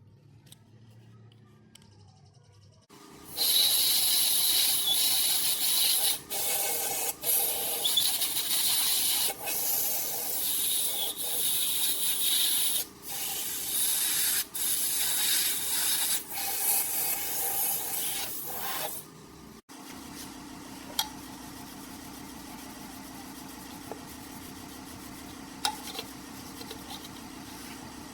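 Loud abrasive scraping on metal, like sanding or grinding, with brief pauses every second or two, stopping at about 19 seconds. After that comes a quieter steady motor hum with a few faint clicks.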